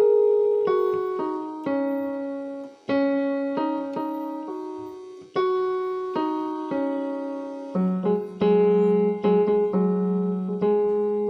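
Solo piano music playing a slow melody, with single notes and chords struck and left to fade away.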